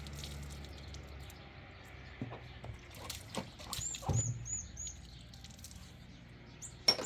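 A small bird gives a quick series of about five high chirps about four seconds in, among scattered light knocks and taps. A sharp click near the end is the loudest sound.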